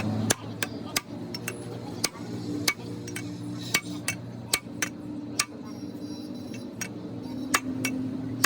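Irregular sharp taps and clinks of metal tools on metal parts, one or two a second, over a faint steady hum.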